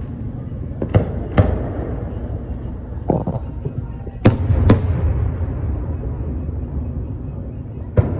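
Fireworks going off: about six sharp bangs, some in quick pairs, over a steady low rumble.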